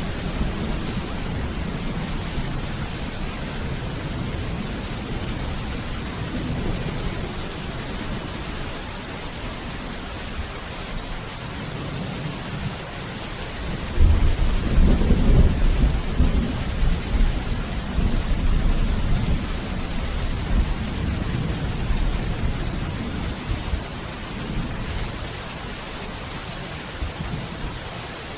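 Steady heavy rain with thunder rumbling: a low roll of thunder starts suddenly about halfway through, is loudest for a few seconds, then slowly dies away under the rain.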